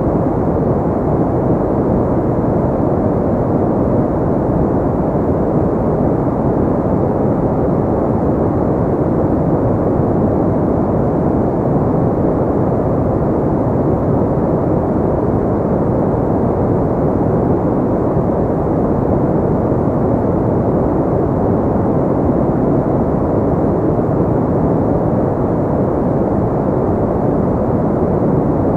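Steady, deep rushing noise of a sleep white-noise track, with little treble and no change.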